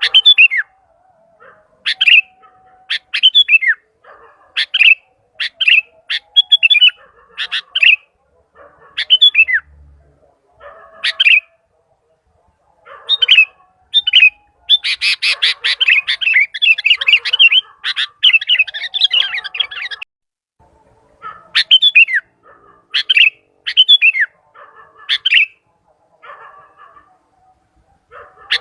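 Sooty-headed bulbul (kutilang) calling over and over in short, clear phrases of falling notes, with a denser run of quick notes about fifteen seconds in.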